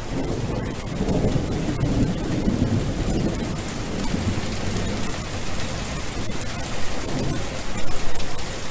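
Steady heavy rain falling, with a low rumble of thunder underneath.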